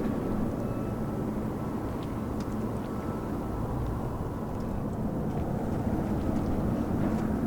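Jet airliner's engines rumbling steadily, with a faint whine above the rumble.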